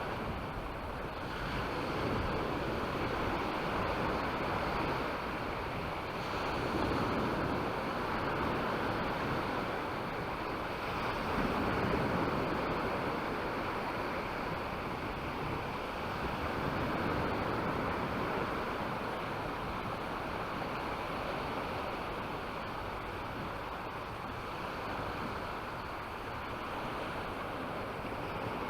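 Sea surf washing onto the beach, swelling and fading about every five seconds, with some wind buffeting the microphone.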